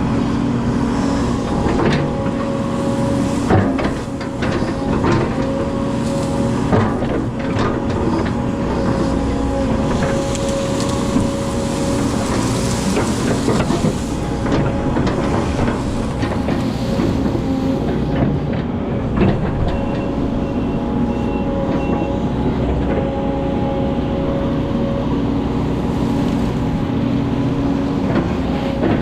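Excavator running steadily under load, its engine and hydraulics holding a constant whine, with repeated knocks and clanks throughout.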